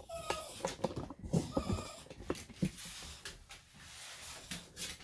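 A small senior Bichon–Shih Tzu mix whining briefly twice in the first couple of seconds, a dog resisting being groomed, among light knocks and handling rustles.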